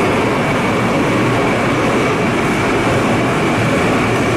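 GTX-A express commuter train pulling out of an underground station past full-height platform screen doors: a steady, loud rush of train and air noise with a thin high steady whine.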